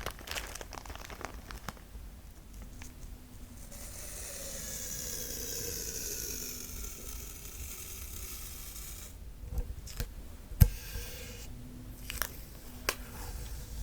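Adhesive tape being pulled off its roll in one long, drawn-out peel that swells and fades, followed by a few sharp taps and knocks, the loudest about ten seconds in.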